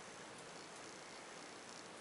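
Low steady hiss with a couple of faint light ticks, one about half a second in and one near the end.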